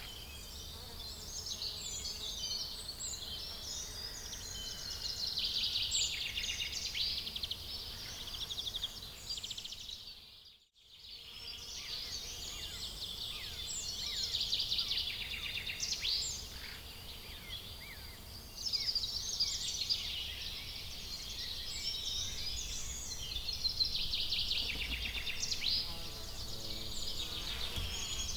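Many small birds chirping and trilling together in a dense chorus, cut off by a brief dropout about ten seconds in.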